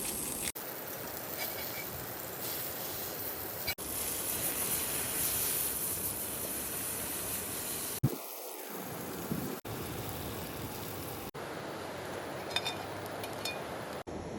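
Food sizzling in a hot pan over a campfire, a steady hiss heard in several short clips with abrupt cuts between them. A sharp click comes about eight seconds in, and faint ticks come near the end.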